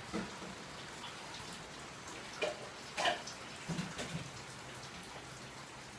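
Steady rain falling, with a few soft knocks.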